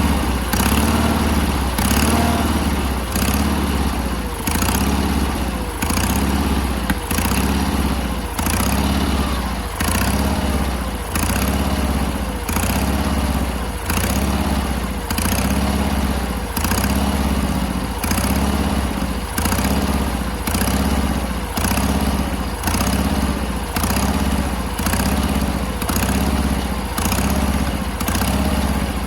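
Small engine of a Sears garden tractor running, its sound swelling and falling in a steady cycle about once a second while its carburetor screws are being adjusted.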